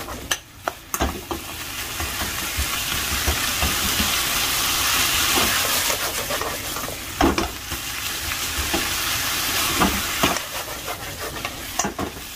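Bitter melon and egg stir-frying in a frying pan: a steady sizzle. Every few seconds the stirring utensil knocks and scrapes against the pan, most sharply about seven and ten seconds in.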